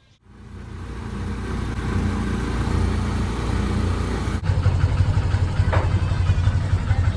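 Motor vehicle engine running, heard from on board, swelling in over the first second or two; an abrupt cut about four and a half seconds in leads into more of the same low engine noise.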